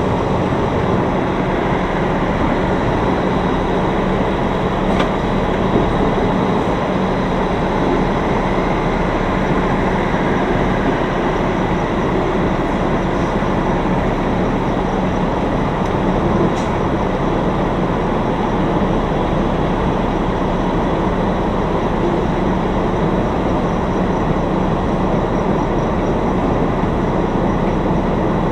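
Semi truck's diesel engine running steadily during slow reverse manoeuvring, heard from inside the cab as a constant rumble with a low steady hum.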